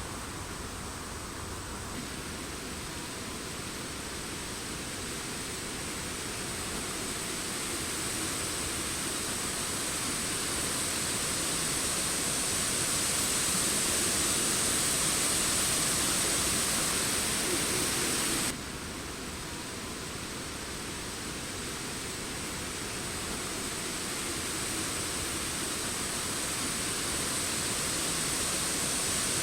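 Wind rushing through forest trees and leaves, a steady hiss that slowly swells. It drops suddenly about two-thirds of the way through, then builds again.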